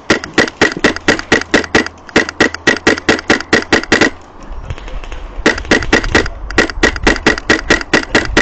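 HPA airsoft rifle (MTW Wolverine) firing on full auto, about seven shots a second. It fires one long burst of about four seconds, stops for about a second, then fires another long burst.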